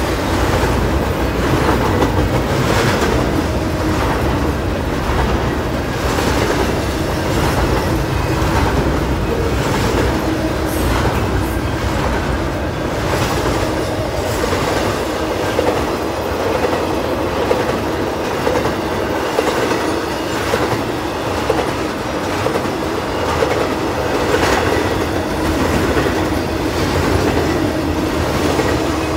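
A Norfolk Southern freight train's double-stack container cars rolling past, their wheels rumbling on the rails and clicking in a steady repeating rhythm as each set of trucks goes by.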